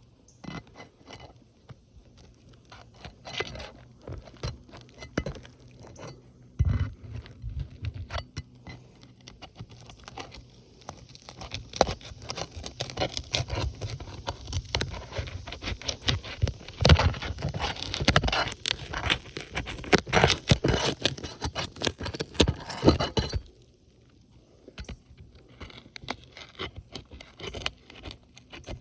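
Asphalt shingles being worked by hand during a roof repair: a run of scraping, crunching and tearing with many sharp clicks. It is sparse at first, thickens into a busy stretch, breaks off abruptly about three-quarters through, and a few lighter scrapes follow.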